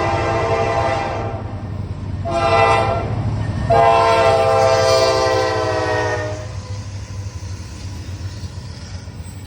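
Diesel freight locomotive air horn sounding a blast that ends about a second in, then a short blast and a long one, over the steady rumble of the passing freight train. The rumble goes on after the horn stops.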